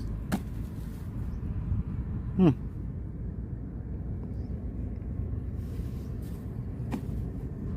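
Steady low outdoor background rumble. About two and a half seconds in, one short, loud, voice-like sound falls in pitch.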